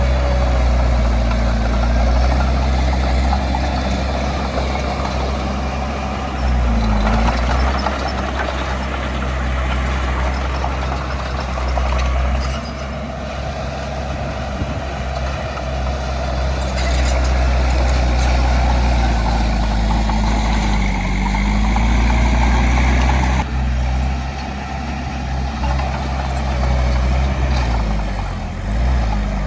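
Heavy diesel earthmoving machinery running under load, a deep steady engine note with mechanical clatter above it; the engine pitch and loudness dip and rise a few times.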